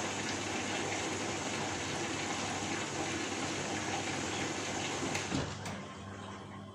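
Steady rushing noise of running water that dies away about five and a half seconds in, leaving a low steady hum.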